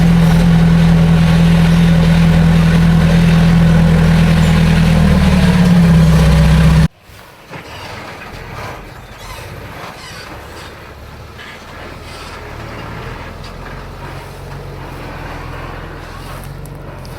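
Heavy diesel engine of earthmoving machinery running loud and steady, its note rising a little about six seconds in. It cuts off abruptly about seven seconds in, leaving a much quieter, steady low engine hum.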